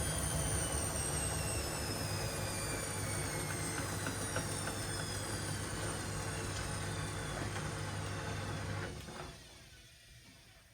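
Washing machine spinning down: a high motor whine falls steadily in pitch over a low hum as the drum slows, then the hum cuts off about nine seconds in and only a faint coasting sound is left.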